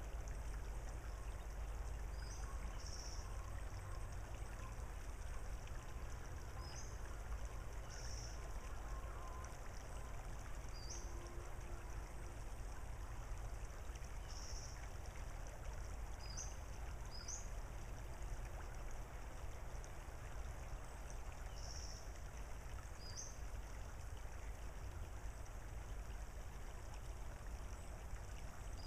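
Steady outdoor ambience, a low rumble and soft hiss of wind and water, with a small bird giving short high chirps every couple of seconds.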